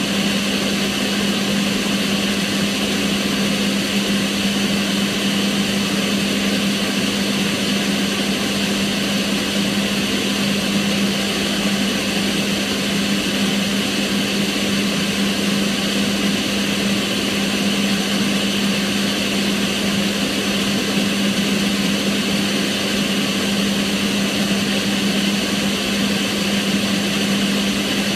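Kitchen range hood fan running steadily: a constant low hum under an even rush of air that does not change.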